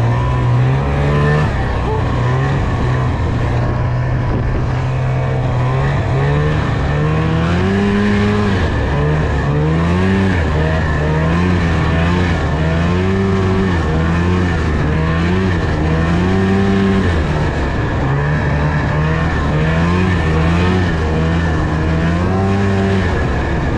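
Snowmobile engine running under way, its pitch rising and falling again and again as the throttle is opened and eased off.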